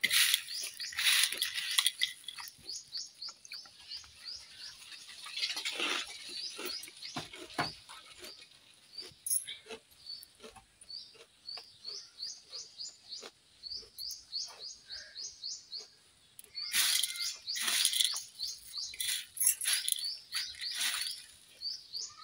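A bird chirping over and over in short high chirps, two or three a second. Louder bursts of crackling and crunching come near the start, around six seconds in and again late on, from puffed rice being handled on a steel plate and chewed.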